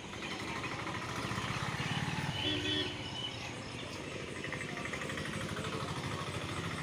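Busy street traffic, with a motor vehicle engine running close by and growing louder about two seconds in.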